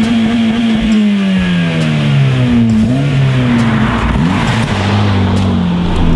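Honda Civic hatchback's four-cylinder engine revving as the car pulls away and drives past. The pitch sinks over the first couple of seconds, climbs again twice, about two and a half and four seconds in, then eases off.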